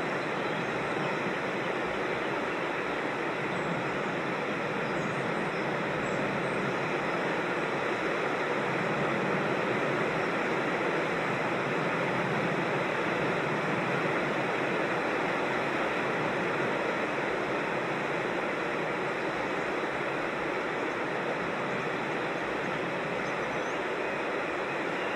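Steady rush of water from a creek or small waterfall, swelling slightly midway.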